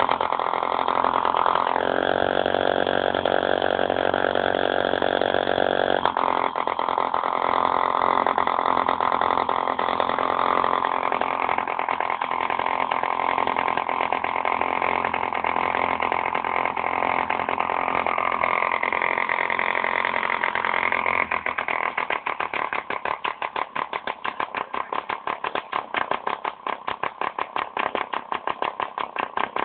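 Small model diesel engine running steadily, its note shifting a couple of times early on, then slowing in the last third to separate, evenly spaced firing beats.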